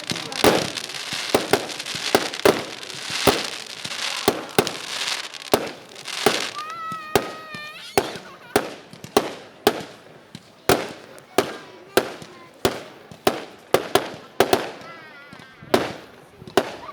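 Fireworks going off: a long run of sharp bangs, about one to two a second, with dense crackling through roughly the first six seconds.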